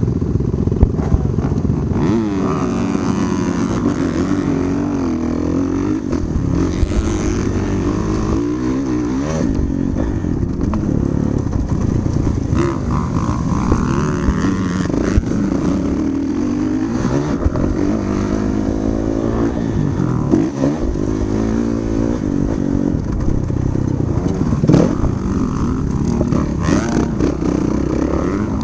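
Motocross dirt bike engine revving up and down as it is ridden around the track, the pitch rising and falling over and over.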